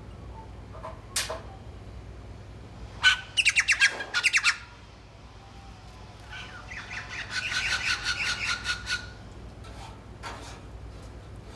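Birds calling: a short sharp call about a second in, a quick run of rapid repeated calls about three seconds in, and a longer run of repeated calls from about six to nine seconds.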